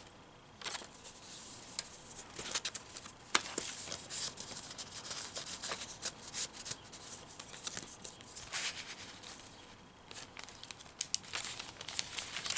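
Paper being handled: rustling and crinkling of journal pages, envelopes and small paper cards as they are taken out and turned, with many short sharp crackles and taps.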